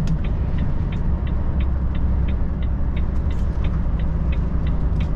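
Truck cab interior: the diesel engine runs with a steady low drone while the turn-signal indicator ticks evenly, about three clicks a second, signalling the coming turn.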